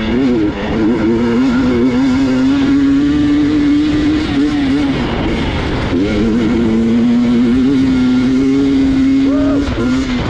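Gas Gas EX 300 two-stroke dirt bike engine revving up and holding a steady high pitch under throttle. It eases off about five seconds in, pulls again around six seconds, and blips the throttle near the end.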